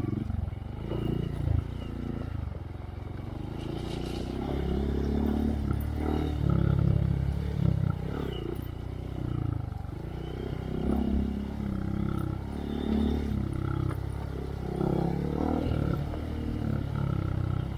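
2023 Honda Monkey's single-cylinder four-stroke engine running through a Yoshimura RS3 exhaust with spark arrestor, its revs rising and falling every second or so.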